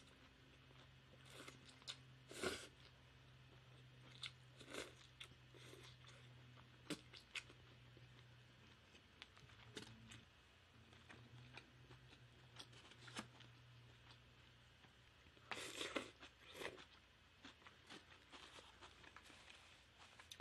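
Faint chewing and mouth sounds of a person eating noodles and other food, in scattered short clicks with a livelier cluster about two thirds of the way in, over a low steady hum that fades out near the end.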